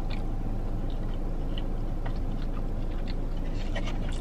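A person chewing soft food with the mouth closed, faint small wet clicks over a steady low hum. The food is a bite of Korean fried cheese on a stick.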